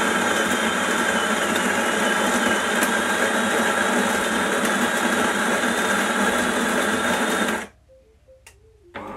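De'Longhi bean-to-cup espresso machine's built-in burr grinder running steadily as it grinds a dose of about 10 grams of beans, cutting off suddenly near the end.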